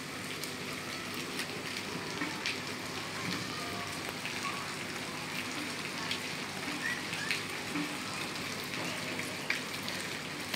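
Steady rain falling, with scattered individual drops clicking on nearby surfaces.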